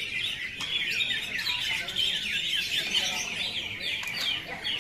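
Greater green leafbirds (cucak hijau) singing together: a dense, unbroken stream of quick chirps and short downward-slurred whistles.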